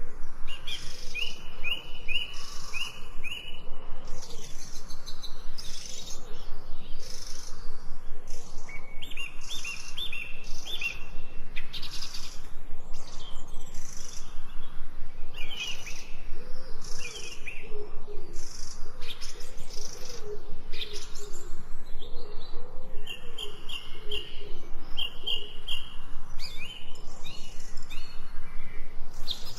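Several birds chirping and calling throughout: many short sharp chirps, repeated quick runs of high notes, and a lower series of call notes about halfway through.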